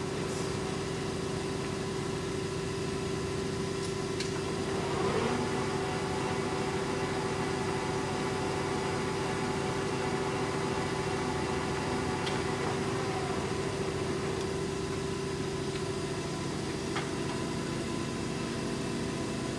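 Poreba TPK-80 engine lathe running with its two-speed spindle motor in low speed, a steady machine hum with several steady tones. The main tone shifts slightly a few seconds before the end.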